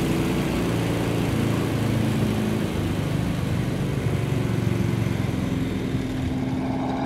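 Crop-spraying helicopter in flight: a steady engine and rotor drone whose pitch drifts down and back up as it moves, fading slightly near the end.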